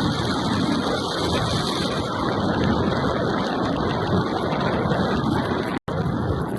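Wind rushing over the microphone and tyre noise from an e-bike riding along a trail, a loud, steady rush that cuts out for an instant near the end.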